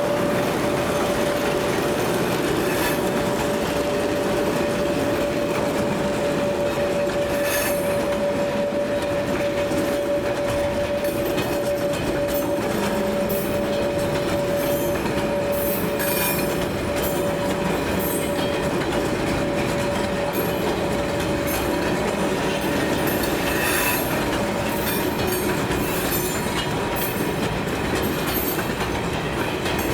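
Train wagons rolling by on the rails, with a steady squealing tone from the wheels and scattered sharp clicks over a continuous rumble.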